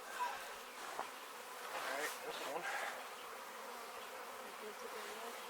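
Honey bee swarm buzzing, with many bees in flight close by. Two short clicks come in the first second or so.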